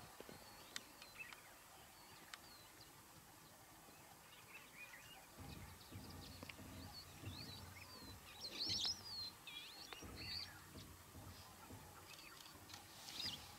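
Small birds chirping and whistling in short calls, loudest in a quick cluster about nine seconds in, over faint outdoor background noise with a low murmur in the middle.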